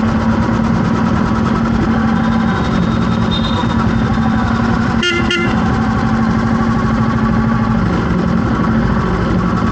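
Vehicle engine running steadily in traffic, with one short horn honk about five seconds in.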